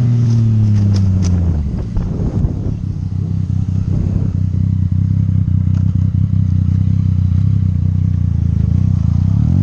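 Motorcycle engine dropping in revs, with clattering and scraping about one to two seconds in. It then runs steadily at low revs and revs up briefly near the end.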